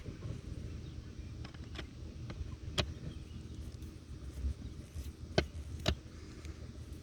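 Scattered small clicks and taps from a screwdriver, screws and a plastic switch housing being worked by hand, three of them sharper than the rest, over a low steady rumble.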